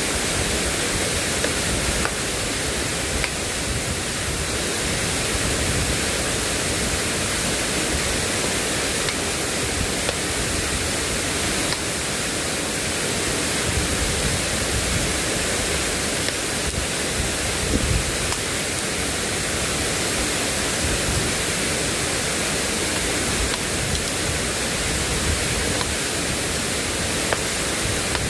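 Steady, loud rushing noise of heavy rain and flowing floodwater, with an uneven low rumble underneath.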